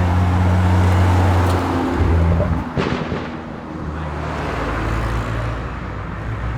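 Car engines running as cars leave a meet. A loud, low engine rumble for the first two seconds, a short sharp crack about three seconds in, then another engine's rumble building.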